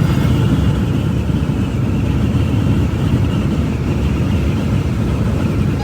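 Semi-truck driving down the road: a steady low rumble of engine and road noise.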